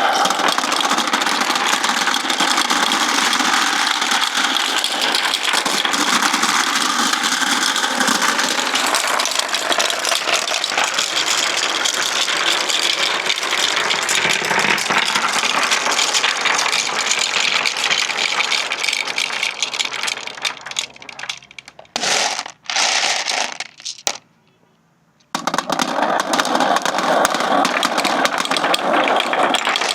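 Many marbles rolling and clattering along a marble-run track in a dense, continuous rattle of small clicks. The rattle thins out about twenty seconds in, stops for about a second, then starts again just as thick.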